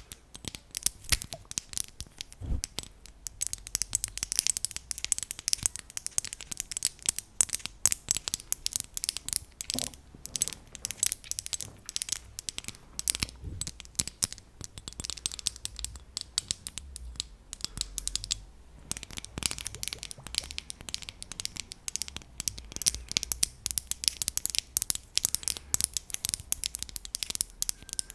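ASMR tapping: a fast, irregular run of crisp taps and clicks on an object, with a brief pause about two-thirds of the way through.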